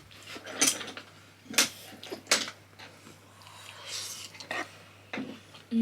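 Eating sounds at a meal: about five sharp clicks and clinks of dishes and cutlery, spread out with pauses between them.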